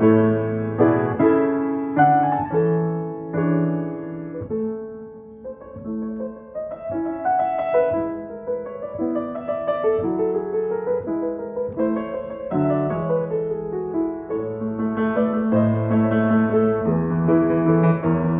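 Feurich piano being played: sustained chords under a melody, softening about five seconds in and then building louder toward the end.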